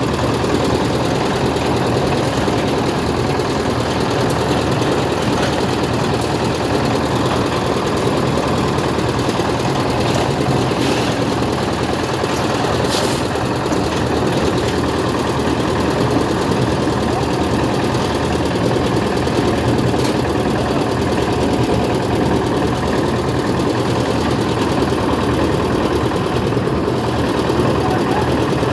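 An engine running steadily at a constant pace throughout, with a low, even hum.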